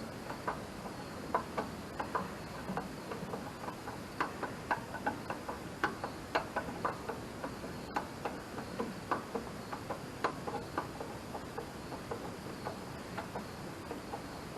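Light metallic clicks and taps, irregular and a few a second, from hand tools working loose a stuck starter mounting bolt.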